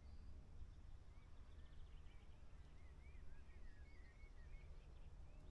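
Faint birdsong: a quick run of short chirps through the middle, over a low steady rumble.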